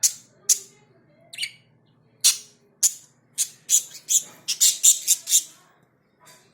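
Small pet parrots (love birds) giving short, shrill chirps one after another at irregular intervals. The chirps crowd together between about three and five and a half seconds in, then stop.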